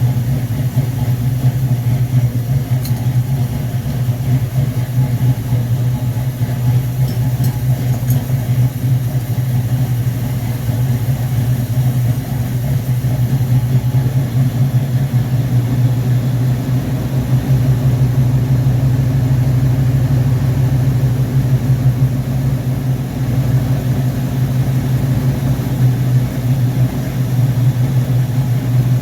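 Car engine idling steadily on a freshly rebuilt Rochester Quadrajet four-barrel carburettor, during its first run after the rebuild.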